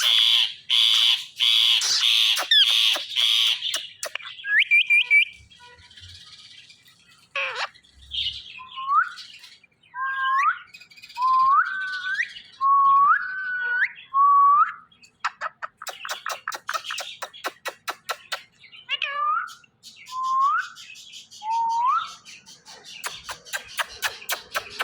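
Indian ringneck parakeet calling: a fast run of loud, harsh screeches at first, then a series of short whistled notes that rise and level off, about one a second. Two stretches of quick rattling clicks break up the whistles.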